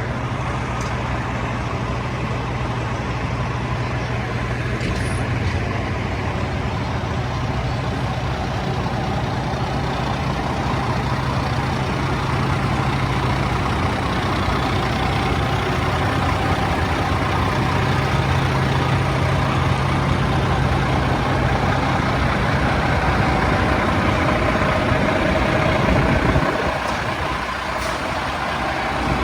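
Fire engine's diesel engine running steadily. Its low hum falls away suddenly near the end.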